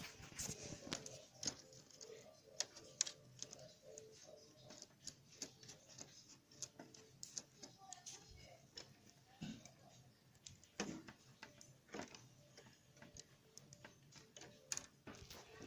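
Faint, irregular clicks and taps of Lego plastic being handled.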